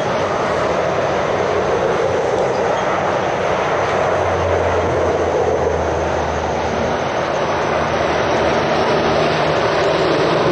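Heavy road traffic: truck engines and tyre noise running steadily, with a deep engine drone strongest about four to six seconds in.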